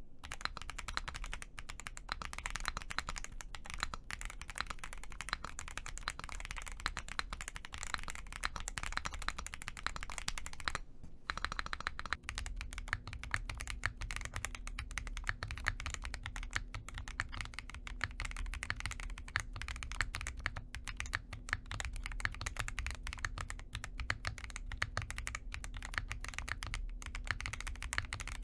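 Fast, continuous typing on a mechanical keyboard during a sound test. About eleven seconds in there is a short break, and then a second keyboard recording begins with a faint steady hum underneath the keystrokes.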